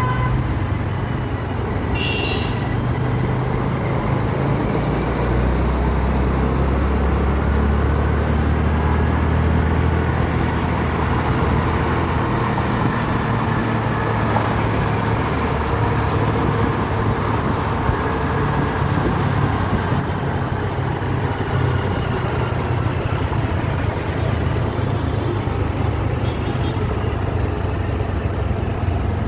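Road traffic, with vehicle engines running steadily, and a short high-pitched sound about two seconds in.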